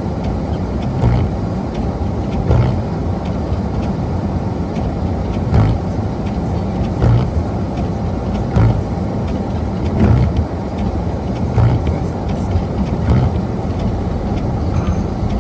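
Car driving: steady road and engine noise, with a regular knock about every second and a half.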